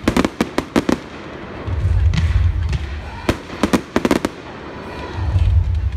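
Fireworks display: quick volleys of sharp bangs from bursting aerial shells, one cluster in the first second and another around three to four seconds in, with a low rumble between the volleys.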